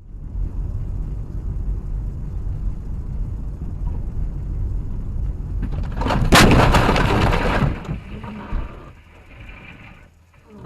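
Low, steady road rumble from a moving car. About six seconds in comes a loud car collision lasting over a second, full of sharp cracks, and then the noise drops away.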